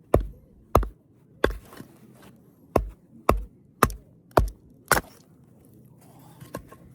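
A series of eight sharp chopping strikes at an uneven pace, roughly one every half second with a pause after the third, stopping about five seconds in.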